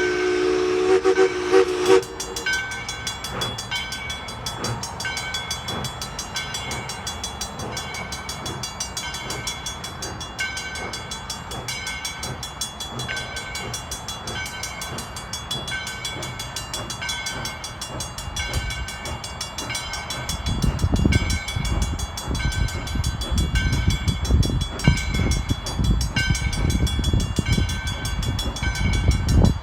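Moving excursion train: a train whistle chord sounds briefly and cuts off about two seconds in. After that come running train noises, with a high tone repeating about once a second, and the low rumble and clatter of the wheels growing much louder in the last third.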